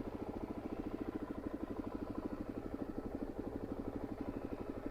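Motorcycle engine idling steadily, an even rapid pulse with no revving.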